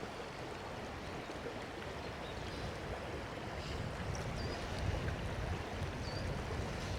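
Fast-flowing river water rushing steadily, with a low rumble swelling in the middle and a few short, faint high chirps.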